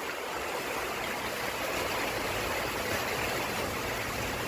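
Heavy rain pouring down and drumming on a carport roof, a steady, dense hiss of water.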